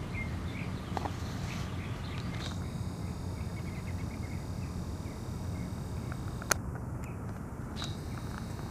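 Small birds chirping faintly over a steady low hum, with a single sharp click about six and a half seconds in.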